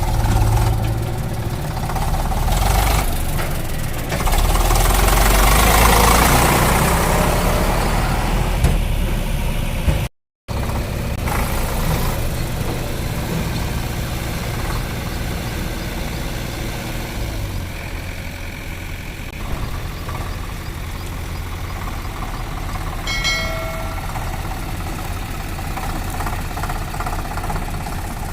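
Diesel tractor engine running steadily with a low pulsing beat, louder between about four and nine seconds in, with a break about ten seconds in. A brief pitched sound comes a little after twenty-three seconds in.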